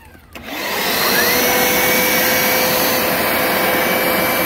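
Hoover SmartWash Pet Complete carpet cleaner switching on about half a second in, its motor whining up to speed and then running steadily.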